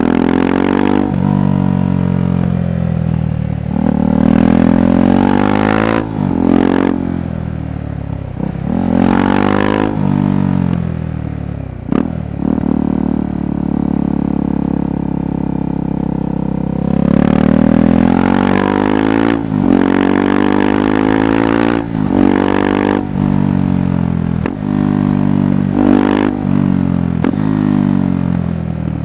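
KTM 390 Adventure's single-cylinder engine and exhaust under way, climbing in pitch through the gears again and again, each climb broken by a brief dip at the shift. The engine holds a steadier pitch for a few seconds around the middle.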